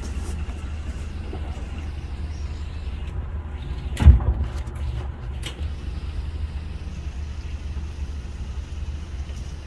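Boat motor running steadily with a low hum, and a loud thump about four seconds in.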